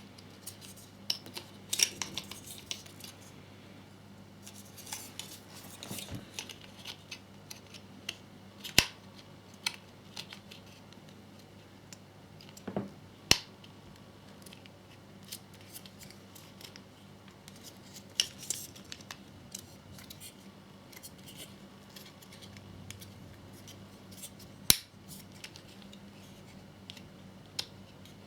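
Parts of a scale-model air intake being handled and pressed together to align them: scattered sharp clicks and taps, a handful of them loud, with light scraping in between.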